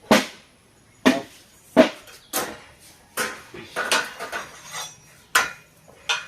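Sharp metallic clanks of steel being struck or knocked: about ten hits at irregular intervals, some under a second apart, each with a brief ring.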